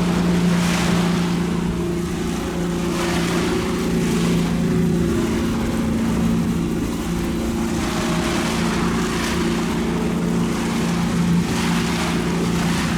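Motorboat engine running at a steady speed, a constant hum, with wind and water noise over it.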